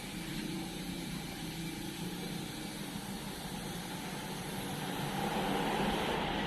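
An engine running steadily, a little louder and higher from about five seconds in.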